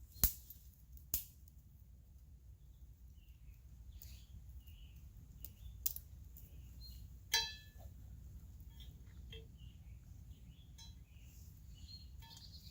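Faint bird chirps scattered throughout. A few sharp clicks come early on, and about seven seconds in there is a louder knock with a short metallic ring, like a clink of camp gear.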